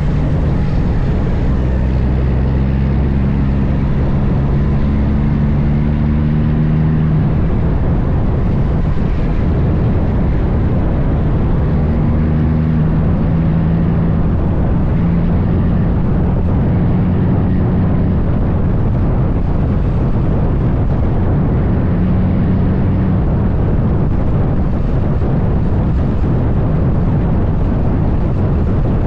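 Heavy diesel truck engine running on the highway under load, with constant road and wind noise. Its pitch climbs over the first several seconds as it pulls up through the gears.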